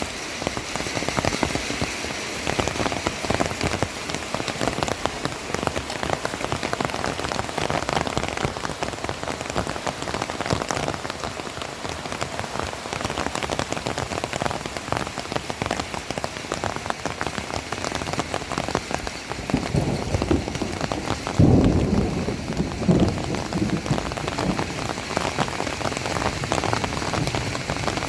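Heavy rain falling and pattering on surfaces close to the microphone, a dense, steady crackle of drops. About three quarters of the way through comes a brief louder, deeper rush.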